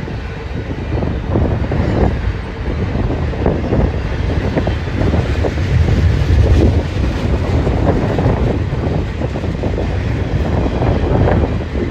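BNSF train rolling past close by: a steady rumble of wheels on the rails with irregular clatter.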